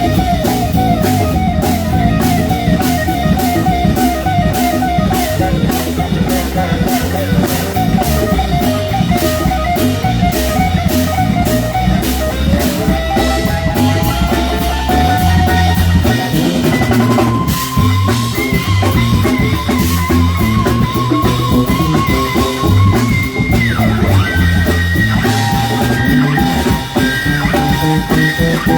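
Live rock band playing an instrumental passage: drum kit keeping a steady beat under bass and guitar, with a lead line of long held notes that waver.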